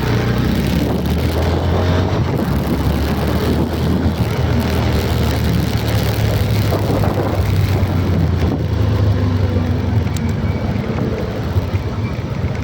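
Steady motor-vehicle running noise: a low engine hum under a continuous rush of road and wind noise.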